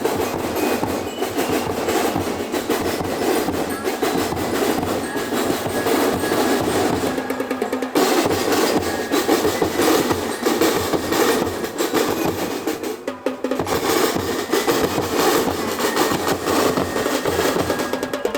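Percussive music with drums and knocking, wood-block-like beats over a busy background; the sound changes abruptly about eight seconds in.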